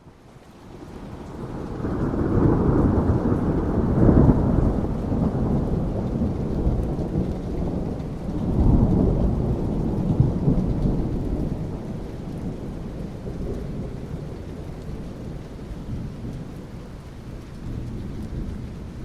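Rolling thunder over steady rain. The deep rumble builds over the first two seconds, peaks about four seconds in, swells again around nine seconds, then slowly dies away under the rain hiss.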